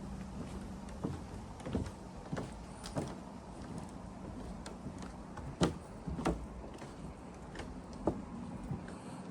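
Footsteps of a person walking: irregular knocks and creaks, the loudest a little past halfway, over a faint steady low hum that fades out about two-thirds of the way through.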